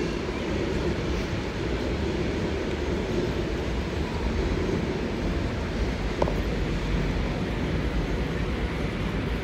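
Sydney Trains electric train running slowly along an elevated steel viaduct overhead, a steady rumble of wheels and motors on the steel structure.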